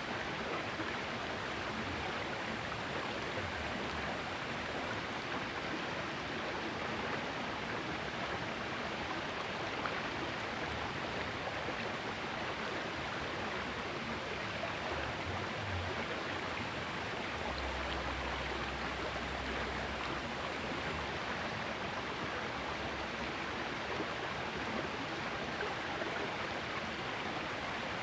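Water of a small river flowing steadily, an even rushing noise.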